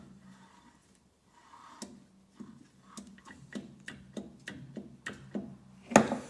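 Freshly assembled VW air-cooled engine crankcase being turned over by hand, clicking irregularly about two to three times a second, with one loud knock near the end: a check that the crankshaft turns freely, without binding, after the case halves are torqued up.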